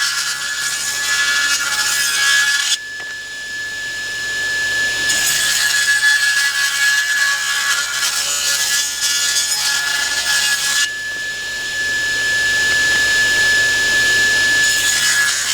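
Table saw resawing boards: a steady blade whine runs throughout, with three stretches of cutting noise as boards pass through, and the saw spinning free in two short gaps, about three seconds in and about eleven seconds in.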